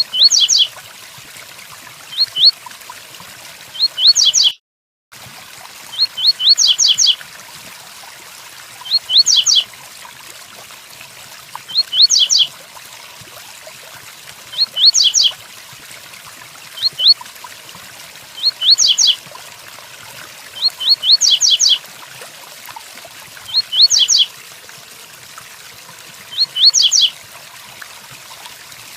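Double-collared seedeater (coleiro) singing its 'tui-tuí' song: short phrases of a few quick rising notes, repeated every two to three seconds. A steady rain sound runs underneath.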